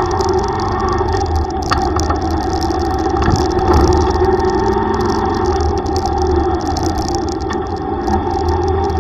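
A Yamaha YTX125 tricycle's single-cylinder engine running steadily on the move, with a steady hiss over it and a few faint clicks.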